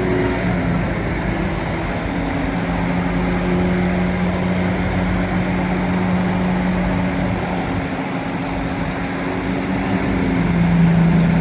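Bulldozer engine running steadily, its pitch wavering slightly, getting a little louder and lower near the end.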